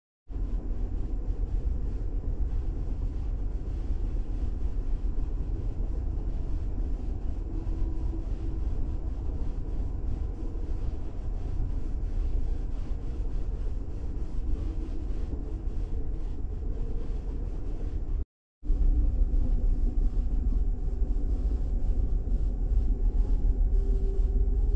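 Interior of a moving Stuttgart S-Bahn electric commuter train: a steady low rumble of the running train with faint tones above it. The sound cuts out briefly about eighteen seconds in and comes back louder.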